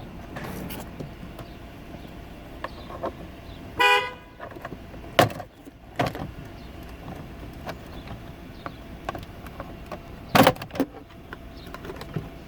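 Plastic trim clips snapping and clicking as the steering column cover of a Lexus LX470 is pried loose, with a few sharp clicks about five, six and ten seconds in. A short single horn-like toot sounds about four seconds in.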